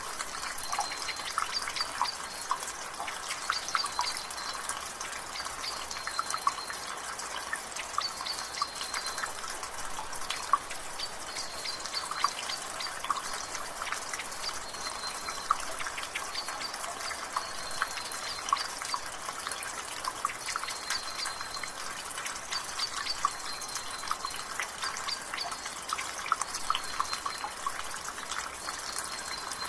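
Rainwater dripping from a gutter in quick, irregular drops over a light rain hiss. A bird's short high call repeats every couple of seconds in the background.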